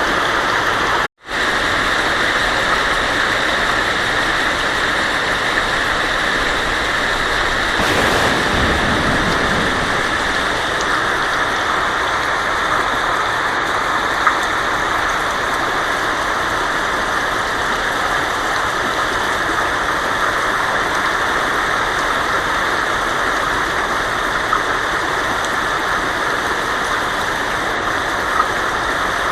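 Heavy rain drumming steadily on a tin roof, a dense even hiss with an occasional sharper drop tick. The sound cuts out for a split second about a second in.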